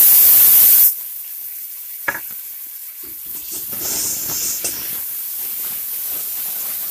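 Cumin and ginger paste hitting hot oil in a metal kadai: a loud burst of sizzling for about the first second, then a steadier sizzle as a flat spatula stirs and scrapes it round the pan, with a sharper click about two seconds in.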